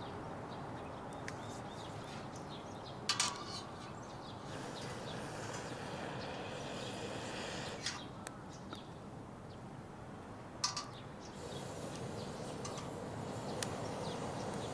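Wood fire burning in a small fire pit, with a steady low hiss, scattered crackles and two louder pops about three seconds and ten and a half seconds in.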